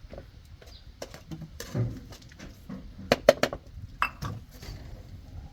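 Irregular clattering knocks and clinks of hard objects, with a quick cluster of sharp strikes about three seconds in.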